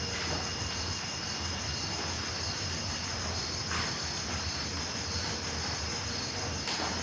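Crickets chirping in a continuous, steady high-pitched chorus of night insects, with two brief soft swishes about four and seven seconds in.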